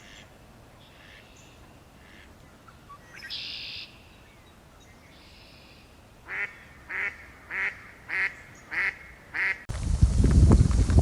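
A bird calls six times in a row, short evenly spaced calls about half a second apart, after a fainter call a few seconds earlier. Near the end the sound cuts suddenly to a much louder, noisy stretch.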